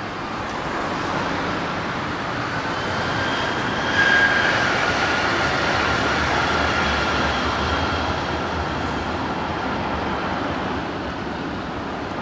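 Passenger train rolling into the station, its running noise swelling and then easing off. A thin high squeal sets in about four seconds in, where the sound peaks, and fades over the next few seconds.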